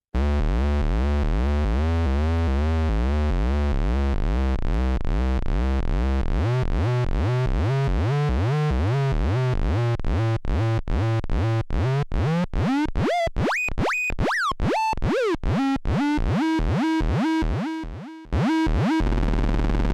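Little Monster analog VCO with its pitch swept over and over by the Anvilope envelope's looping inverted output, patched into linear FM. The warbling sweeps speed up and climb into high chirps midway, then give way to a steady buzzing tone near the end.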